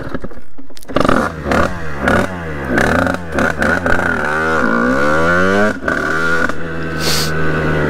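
Two-stroke engine of a Sherco 50cc supermoto motorcycle accelerating from a ride-off, its revs rising and falling again and again as it goes through the gears, then running more steadily near the end. A short hiss about seven seconds in.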